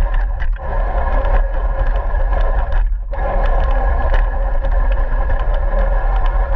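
Radio-controlled car driving: a steady whine from its motor and gears over a low rumble and scattered clicks from the wheels on the ground, briefly dropping away about three seconds in.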